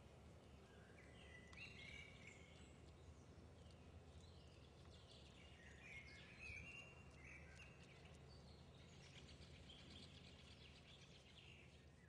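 Faint birdsong: bouts of short chirps and trills from small birds over a low, steady background rumble.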